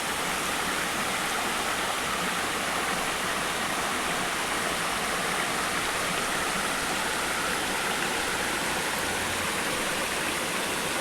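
Steady rush of water at the foot of a waterfall, a continuous even roar of falling and flowing water.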